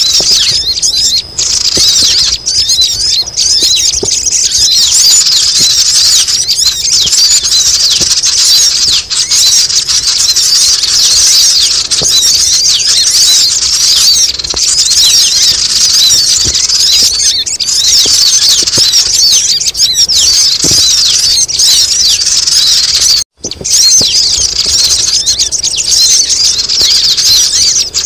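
Sogon bird lure recording: a loud, dense, continuous chorus of many high, rapid chattering calls, played to attract wild sogon birds down to a trap. The sound breaks off for an instant about 23 seconds in.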